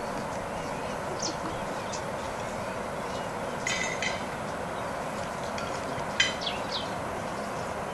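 Outdoor savanna ambience: a steady rushing background noise with a few birds calling over it. A short call comes about halfway through, and a sharper, louder chirp follows near the end, with a couple of faint quick notes after it.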